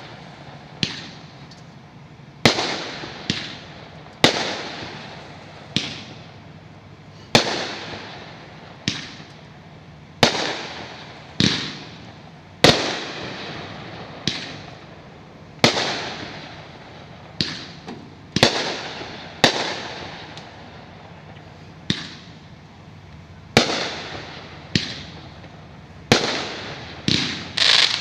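A multi-shot fireworks cake firing its shells one after another: sharp bangs every second or two, each trailing off in a fading tail before the next.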